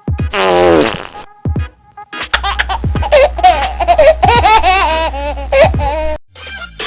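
Edited-in laughter sound effect over music with a heavy, steady bass line. It is preceded by a short buzzy sound falling in pitch, about half a second in.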